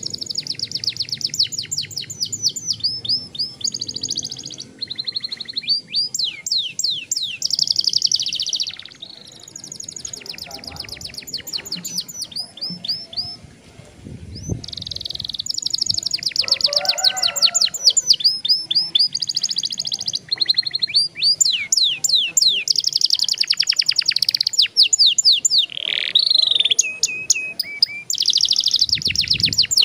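Young domestic canary singing a long rolling song: fast trills of rapidly repeated high notes, run together with brief breaks, going quieter for a few seconds about a third of the way in before resuming loudly.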